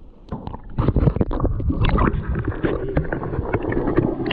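Water sloshing and splashing right at the microphone, a rough rumble broken by many irregular knocks and clicks that starts a moment in.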